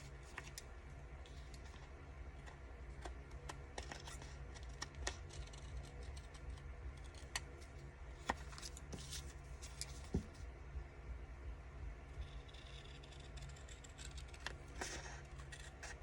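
Scissors snipping paper and paper being handled: scattered light clicks and snips over a steady low hum.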